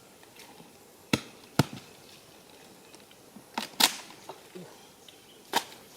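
Five sharp knocks: two half a second apart, then two more closer together a couple of seconds later, and one near the end.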